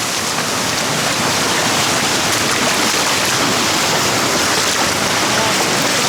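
Steady, loud rush of fast-flowing water at a waterfall, an even unbroken hiss.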